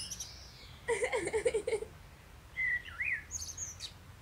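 Songbirds chirping in short separate calls and whistles, one sliding down in pitch at the start and a few high chirps near the end.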